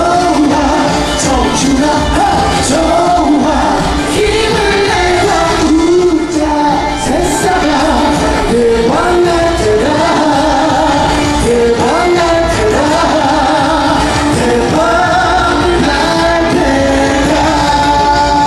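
Live pop music with a sung melody line, played loud and continuously through a concert sound system.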